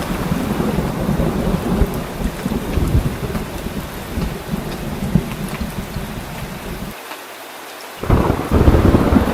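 Heavy rain with continuous rolling thunder. Near the end the deep rumble drops away for about a second, then comes back louder.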